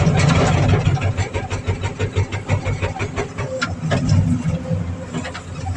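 Excavator's hydraulic breaker hammering: a rapid, uneven run of sharp blows over the low running of the machine's engine. It starts abruptly at the outset and is heard from inside the operator's cab.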